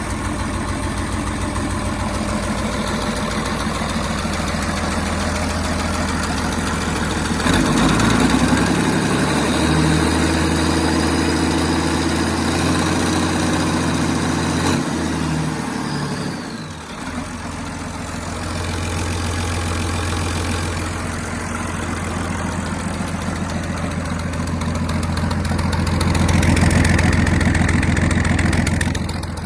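Cummins 6BT inline-six turbodiesel running. It idles steadily, is revved up about a quarter of the way in and held at higher speed for several seconds, then drops back, and rises again briefly near the end.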